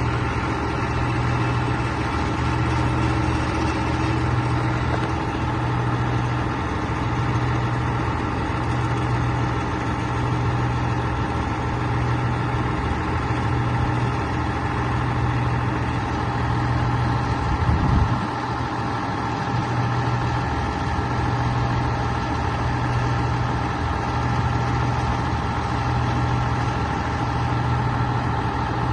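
Scania 113H-320's 11-litre six-cylinder diesel engine idling steadily, with a brief thump about two-thirds of the way through.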